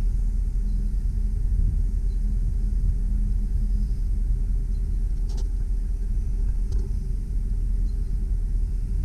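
Truck engine running steadily with a low rumble while the hydraulic boom is extended, with two light clicks about five and a half and seven seconds in.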